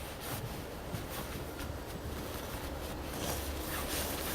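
Rustling and scraping handling sounds, with a steady low rumble of wind on the microphone.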